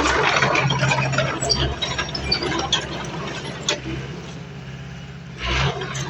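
Crawler bulldozer's diesel engine running under load, with many sharp clanks and crackles from the tracks and debris, loudest in the first two seconds, and a short loud burst near the end.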